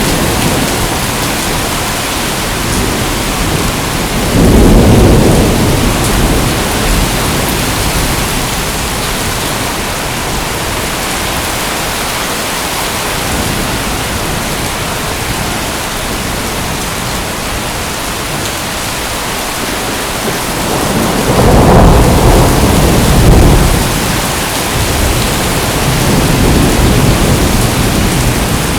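Steady heavy rain hiss with low rolls of thunder: one about four seconds in, a longer, louder one past the twenty-second mark, and a fainter one near the end.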